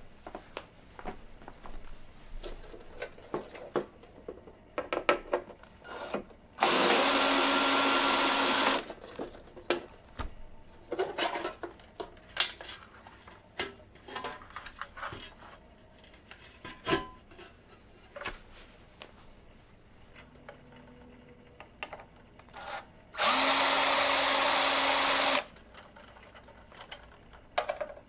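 A power drill runs twice in steady bursts of about two seconds each, working fasteners on a fluorescent shop-light fixture during a ballast replacement. Between the bursts come scattered clicks and knocks of parts being handled.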